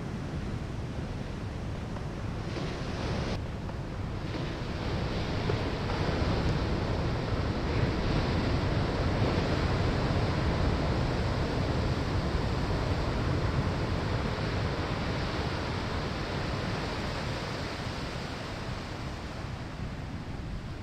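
Ocean waves breaking on a sandy shoreline, a steady rushing wash that swells louder about a third of the way in and slowly eases toward the end.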